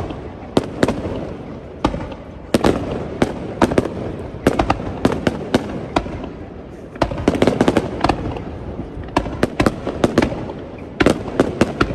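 Fireworks display bursting in a rapid barrage: many sharp bangs bunched in quick clusters over a continuous low rumble.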